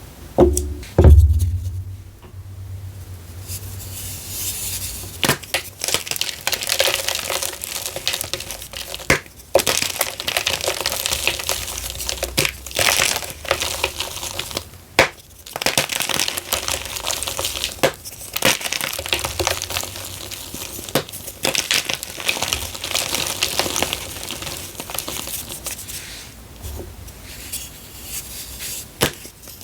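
Blocks of gym chalk being crushed and crumbled in a bamboo bowl, a dense irregular crunching and crackling with brief pauses. A loud thump about a second in.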